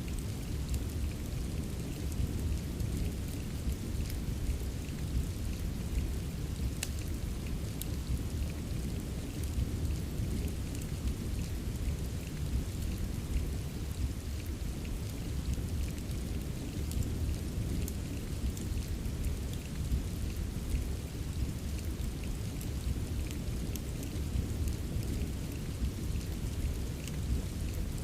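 Steady rain ambience with a deep, even rumble underneath, mixed with scattered small crackles of a wood fire in a fireplace.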